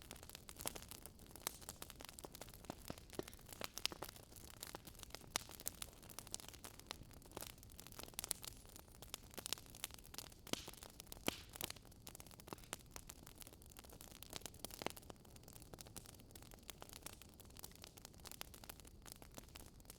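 Campfire crackling: irregular sharp pops and snaps over a faint steady hiss.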